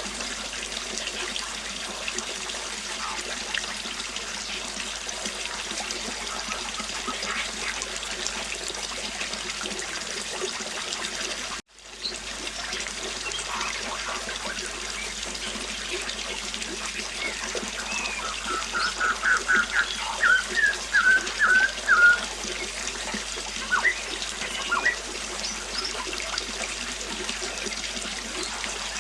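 River water flowing steadily, with birds chirping here and there. The sound cuts out briefly about twelve seconds in and fades back. Later a bird sings a quick run of bright notes, the loudest part.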